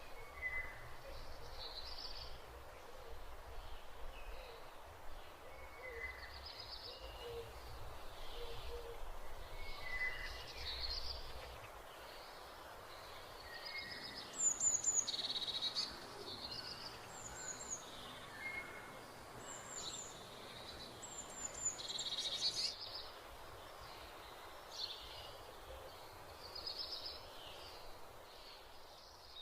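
Birds chirping and calling, many short repeated whistled notes over a steady background hiss, loudest about halfway through.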